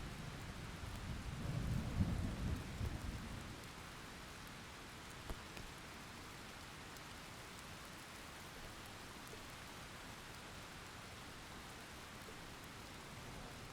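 Steady rain hissing, with a low roll of thunder in the first few seconds that fades away, leaving the rain alone.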